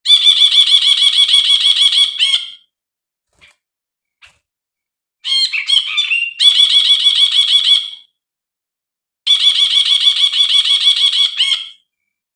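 Brinji bulbul singing three bursts of rapid, evenly repeated high chattering notes, roughly seven a second, each burst lasting about two and a half seconds. The second burst opens with a short, more varied phrase.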